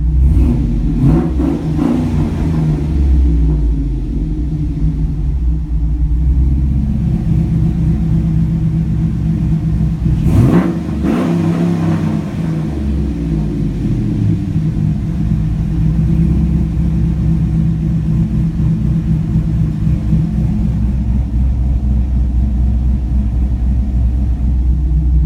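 Swapped 5.3 L V8 with a Texas Speed stage 4 cam, running at a steady idle. The engine is blipped briefly near the start, and revved once more clearly about ten seconds in, its pitch rising and falling back before it settles to idle again.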